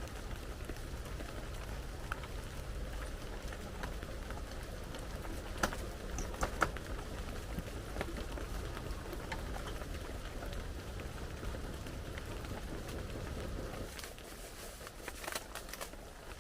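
Steady rain falling, with a few sharper ticks of single drops, and it eases slightly near the end.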